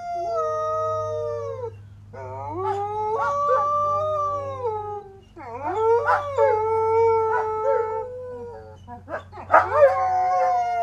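Several canids howling together in long, wavering calls that overlap, each lasting two to three seconds, with a steady low hum underneath.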